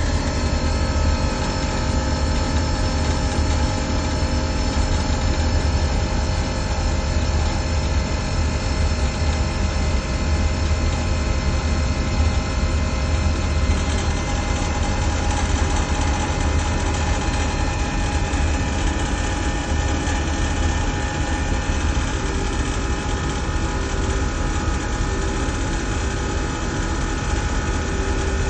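HVAC chiller-plant machinery running steadily: a loud, constant mechanical hum with a deep low drone and several steady tones over it.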